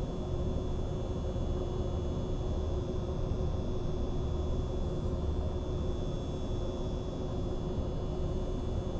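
Mistral ceiling fan running steadily: an even rush of air with a steady motor hum and a faint high-pitched tone above it.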